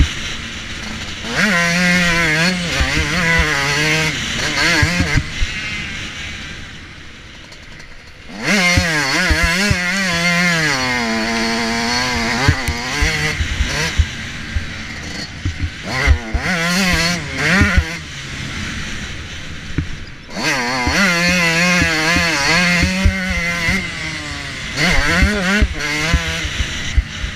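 Motocross bike engine heard close up from the bike itself, revving hard in long bursts with its pitch rising and falling through gear changes and throttle, dropping away briefly twice when the throttle is shut. Frequent short knocks run through it.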